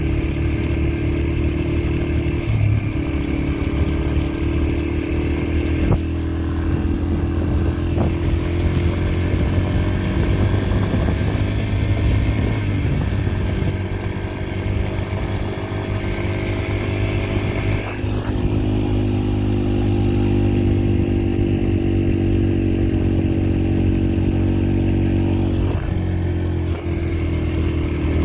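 Yamaha TT-R125LE dirt bike's single-cylinder four-stroke engine running under way, its revs rising and falling a few times as the rider works the throttle.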